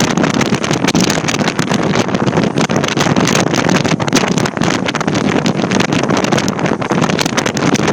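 Loud, steady rush of wind buffeting the microphone, with uneven gusty crackles throughout.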